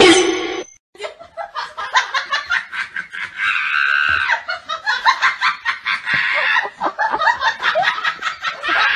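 Squeezed rubber chicken toy squawking in quick repeated squeaks, with a longer held squeal about three and a half seconds in and another near six seconds.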